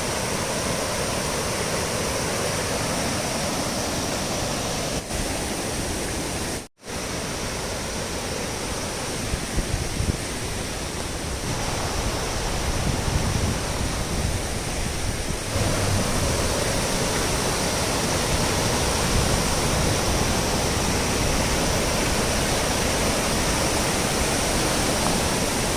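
Torc Waterfall, a steady noise of falling water, with a momentary cut-out about a quarter of the way through.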